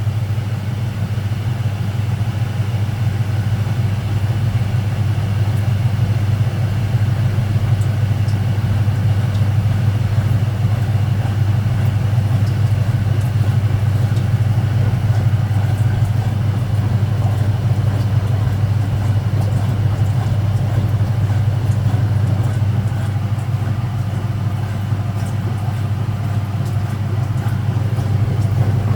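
Speed Queen top-loading washing machine spinning at full speed: a steady, even motor and drum hum that holds at one pitch.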